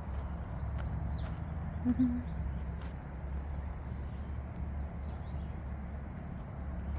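Small birds chirping: a quick run of high notes about a second in and fainter chirps later, over a steady low background rumble. A brief low tone sounds about two seconds in.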